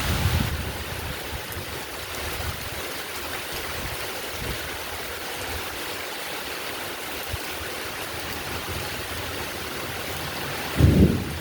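Heavy rain falling steadily, with a sudden low rumble of thunder near the end.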